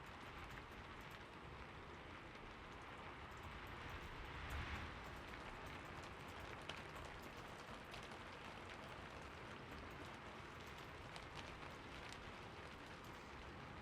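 Faint, steady rain: an even hiss with scattered drop ticks, swelling briefly about four to five seconds in.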